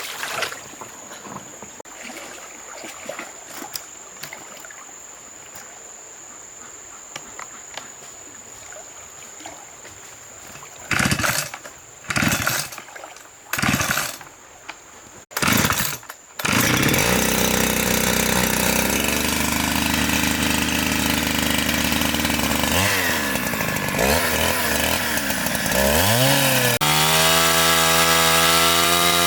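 A chainsaw goes off in several short loud bursts as it is started, then about halfway through it catches and keeps running. Its engine pitch dips and recovers several times as it revs or takes load.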